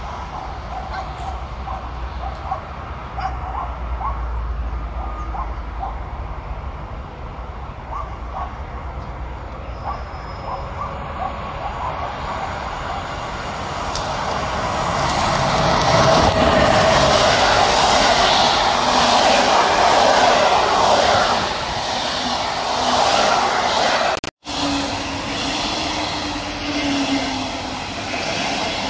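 Electric passenger train approaching and passing along the platform: a rumble of wheels on rails builds from about halfway and stays loud for several seconds. It cuts out abruptly, and a quieter passing double-deck train with a low steady hum follows.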